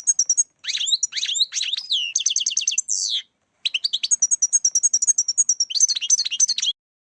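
European goldfinch singing: a fast, liquid twittering song of rapid high notes and trills. It pauses briefly about three seconds in and cuts off abruptly near the end.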